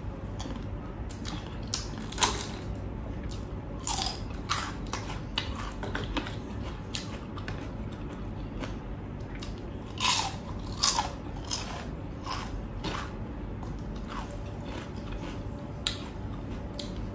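A person chewing and biting crunchy food close to the microphone, with irregular sharp crunches scattered through. The loudest crunches come about two, four, ten and eleven seconds in.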